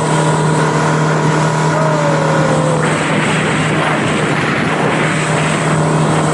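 Motorboat engine running at a steady hum, with a loud rushing noise over it from about three seconds in until shortly before the end.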